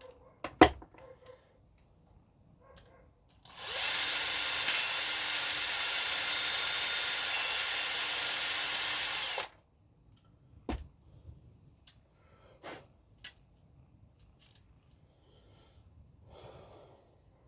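A small power drill runs steadily for about six seconds at an even speed, starting and stopping abruptly. A few sharp clicks of small parts being handled come before and after it, the loudest just after the start.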